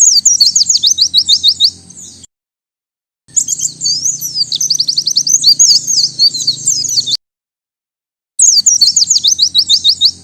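White-eye (pleci) singing three high, rapid song phrases with dead-silent gaps between them. The first and last phrases are quick runs of down-slurred notes, and the middle phrase is longer and more varied.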